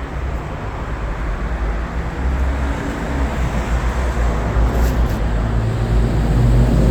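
Steady low rumble with no clear tool whine, growing a little louder toward the end.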